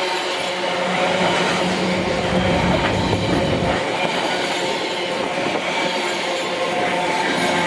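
Freight train rolling past, a steady rumble of wagons on the rails with thin, steady high squealing tones from the wheels.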